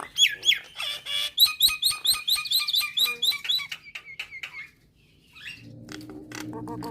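Jalak nias (a myna) singing a fast run of repeated whistled chirps, several a second, for about four and a half seconds. After a short gap, a lower, buzzy call with clicks begins near the end.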